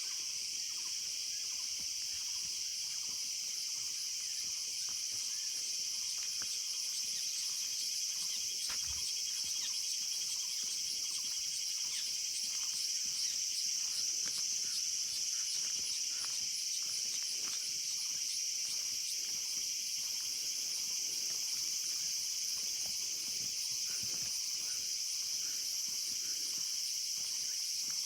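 Steady outdoor chorus of insects: a continuous high-pitched drone with rapid repeating chirps over it.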